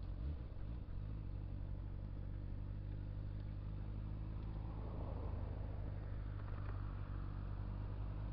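Honda Hornet motorcycle's inline-four engine running at a steady, even note while riding, heard from a camera mounted on the bike.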